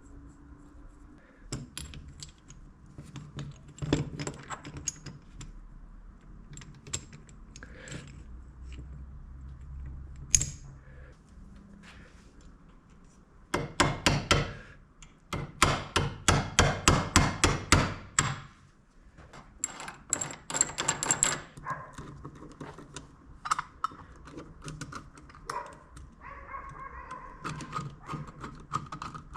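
Metal parts clinking and knocking in workshop handling, with a run of rapid, evenly spaced strokes in the middle lasting about five seconds.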